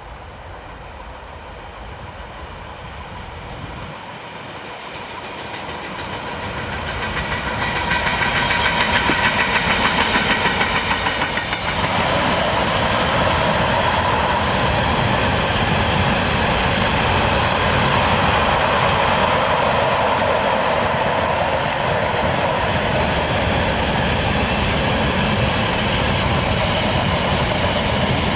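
Train approaching and passing, growing louder over the first eight seconds, then a long steady run of wheels on the rails with clickety-clack as the train goes by.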